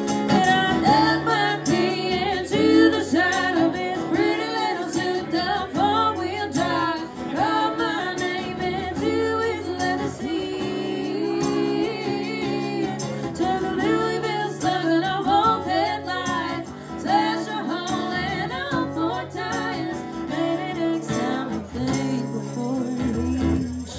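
Live band playing a country song, with acoustic guitar and a woman singing.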